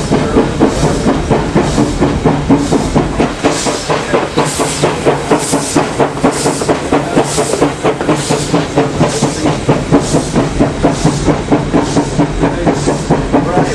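Train running along the track, heard from on board: a steady rumble and clatter with a regular hissing beat about once a second.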